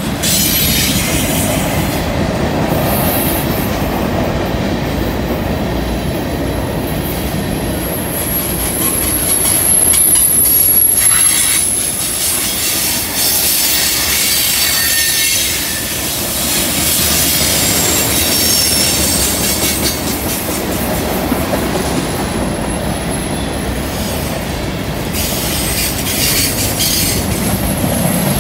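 Freight cars rolling past on curved track: a steady rumble of steel wheels on rail, with a thin, high-pitched flange squeal from the wheels on the curve that comes and goes.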